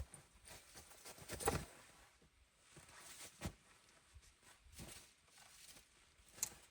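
Someone moving about in snow: a few scattered crunches and knocks one to two seconds apart, the loudest about a second and a half in.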